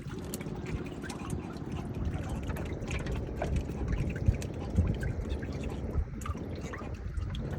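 Water splashing and dripping, with many small irregular clicks over a steady low rumble.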